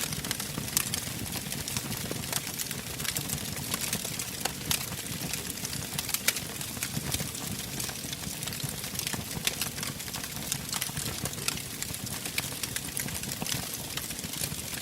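Wood fire burning in a fireplace: a steady low rumble of flame with frequent irregular sharp crackles and pops from the burning logs.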